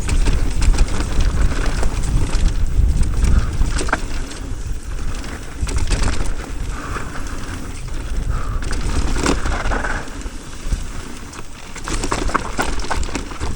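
E-mountain bike riding fast down a dirt trail: a steady rush of wind over the microphone, tyres on dirt, and clicks and knocks from the bike rattling over bumps.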